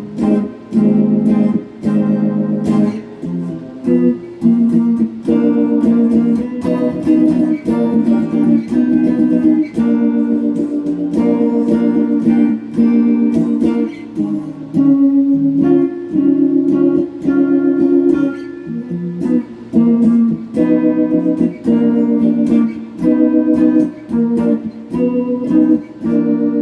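Electric guitar (a Donner '72 Thin semi-hollow clone) played through a Peavey Backstage Plus amp: rhythmic picked chords and single notes, with short breaks between phrases.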